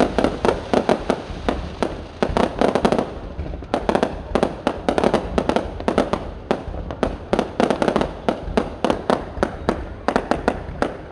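Aerial fireworks going off in quick succession: a dense, irregular run of sharp bangs and crackles over a continuous low rumble.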